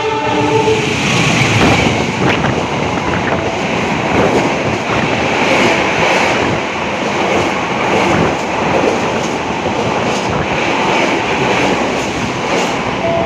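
Express passenger train running straight through a station at speed: a loud, steady rush of carriages with quick clicks of wheels over rail joints. The tail end of its horn fades in the first second.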